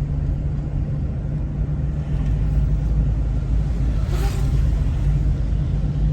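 Steady low rumble of a car driving, heard from inside the cabin: engine and road noise, with a brief rush of hiss about four seconds in.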